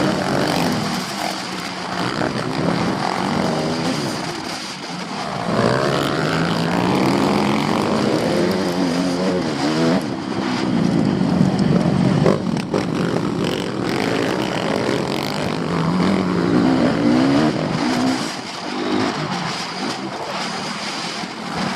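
A pack of motocross bikes revving hard together, several engines at once. Their pitches repeatedly climb and drop as the riders accelerate and shift gears.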